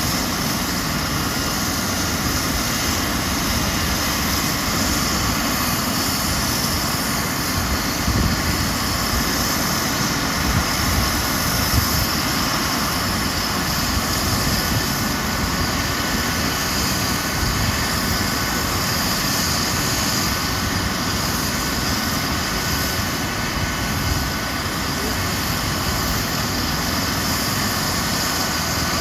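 Eurocopter EC135 helicopter's turbine engines and rotor running steadily: an even, loud roar with a steady high turbine whine.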